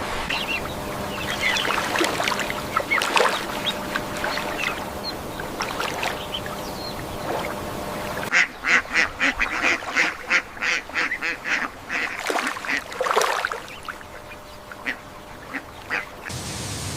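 Birds calling over a steady background hiss. About eight seconds in, the sound cuts to a run of short, evenly spaced calls at about five or six a second, followed by a few scattered calls.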